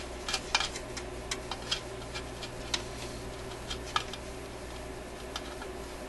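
Irregular small clicks and taps of a hand tool working against a screw and metal shield can inside a tube radio chassis, as the tool is adjusted to fit the screw. Most of the clicks come in the first three seconds, with another cluster about four seconds in, over a low steady hum.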